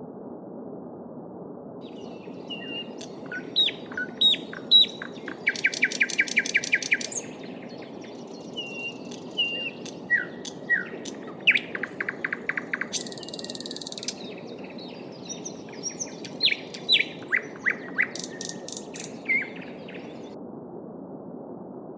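Small songbirds singing over the steady rush of a brook: varied whistled phrases and chirps, with fast rapid trills about a quarter of the way in and again near the middle. Only the flowing water is heard for the first and last couple of seconds.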